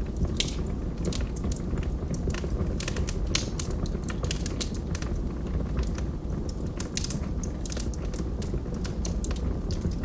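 Wood fire burning in a fireplace: a steady low rumble of flame with frequent irregular crackles and pops from the logs.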